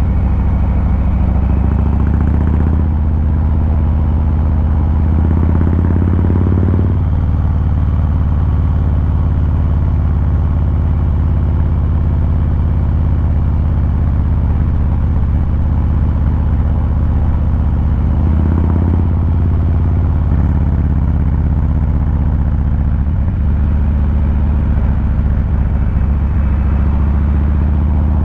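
2023 Harley-Davidson Fat Boy 114's Milwaukee-Eight 114 V-twin exhaust, heard from the rider's seat while riding. The revs climb from about three seconds in to about seven seconds, then drop off sharply at a gear change. The pitch shifts again about two-thirds of the way through.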